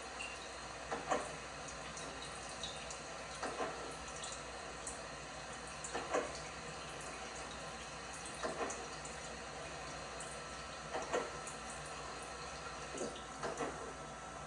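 LG washing machine drum turning a wet load in the wash, with a slosh of water about every two and a half seconds over a steady background noise.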